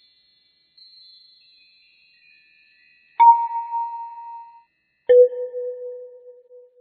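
Bell-like chime sound effects. Faint high tinkling tones fade out, then come two sharp struck tones about two seconds apart, the first higher and the second lower, each ringing out and dying away over a second or so.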